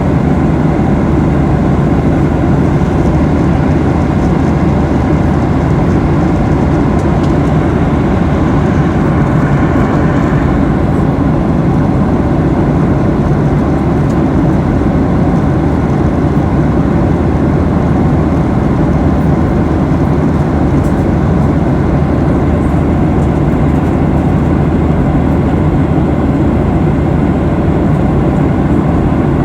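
Steady, loud airliner cabin noise in flight: the even drone of the jet engines and the air rushing past the fuselage, heard from inside the passenger cabin.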